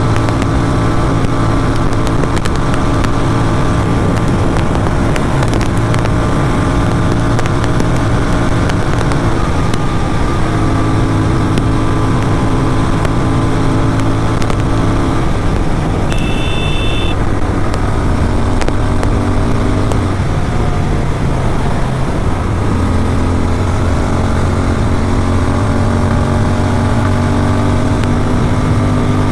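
Motorcycle with an aftermarket exhaust running flat out at highway speed, around 180–190 km/h. The engine drones steadily and its pitch shifts a couple of times. A brief high beep sounds about halfway through.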